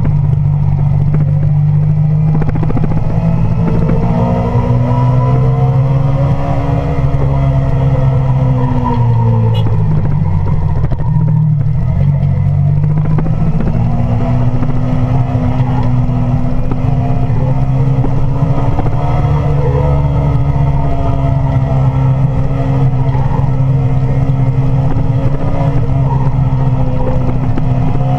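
Sport motorcycle engine running under way, heard from a camera mounted on the bike, with wind noise. The engine note climbs, falls away about ten seconds in, then climbs again and holds steady.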